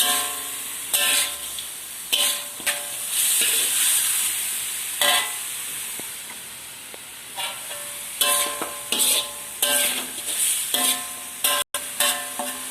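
Marinated chicken pieces sizzling as they fry in oil, with a utensil scraping and knocking against the pan in repeated stirring strokes. The chicken is being lightly fried before it is boiled in the curry.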